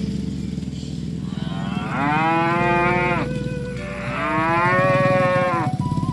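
Cow mooing twice, two long calls each about a second and a half, each rising and then falling in pitch, over a steady low hum.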